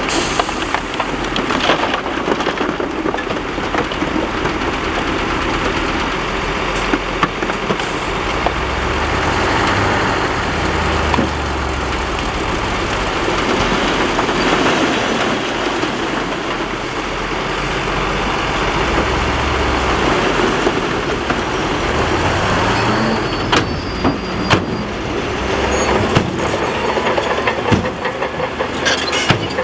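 Bulldozer's diesel engine running under load as it pushes rock and dirt. The engine note rises about three quarters of the way through, and several sharp knocks and clatters come near the end.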